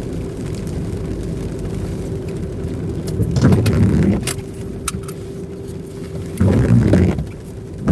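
Inside a car cabin: a steady low hum from the car, then a series of sharp clicks and two louder thumping, rustling bursts about three and a half and six and a half seconds in, as the car is being parked.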